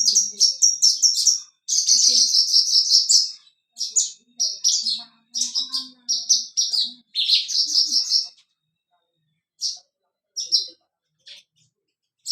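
Horsfield's bush lark (branjangan, Mirafra javanica) in full song: rapid, high trilled phrases of about a second each in quick succession, thinning to a few short separate notes after about eight seconds.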